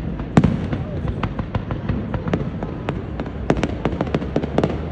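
Aerial fireworks going off: a rapid string of sharp pops and bangs from bursting shells, the loudest about half a second in and coming thickest near the end, over a steady low rumble.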